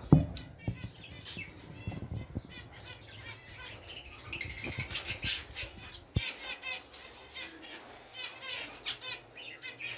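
A flock of small aviary birds (budgerigars, canaries and finches) chirping and chattering continuously, with wings fluttering now and then. A loud knock sounds right at the start and a softer thump about six seconds in.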